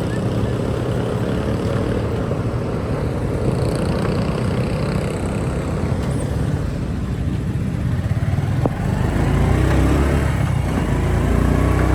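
Motorcycle engine running steadily while riding, with road noise; in the last few seconds an engine note rises as it speeds up.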